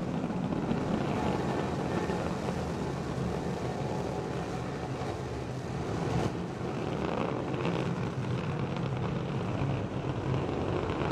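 Three Raptor rocket engines of a SpaceX Starship burning during ascent, a steady, dense rocket noise.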